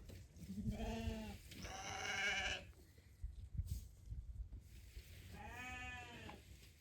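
Sheep bleating three times; the middle bleat is higher and wavering.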